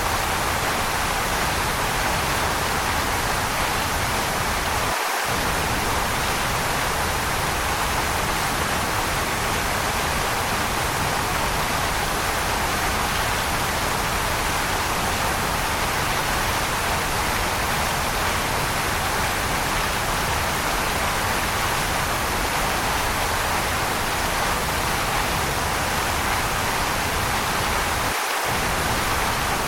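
Waterfall water rushing in a steady, unbroken hiss. The low rumble drops out for an instant about five seconds in and again near the end.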